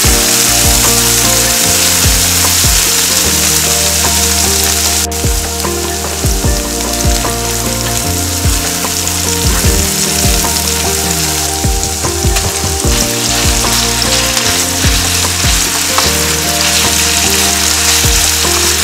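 Chopped garlic and chilies frying in hot oil in a nonstick pan over high heat: a steady sizzle, with background music carrying held notes underneath.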